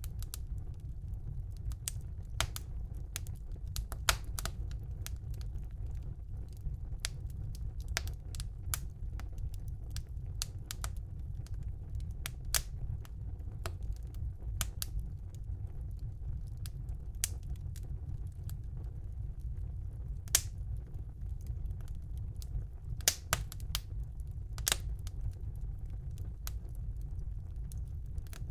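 Wood fire burning in a fireplace: irregular sharp crackles and pops over a steady low rumble of the flames, with a few louder pops.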